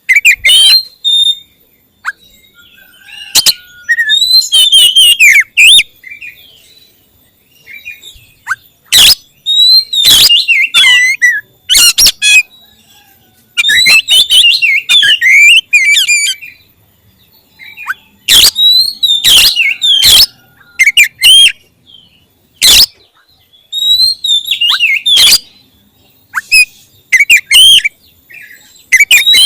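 Oriental magpie-robin (kacer) singing loudly in short bursts of fast, varied warbling phrases, one to two seconds each with brief pauses between them, mixed with sharp loud clicks.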